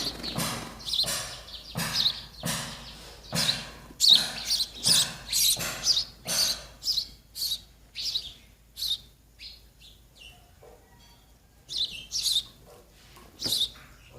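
Baby sparrows chirping, short sharp calls about two a second, typical of nestlings begging to be fed. The calls thin out after about eight seconds and pick up again near the end.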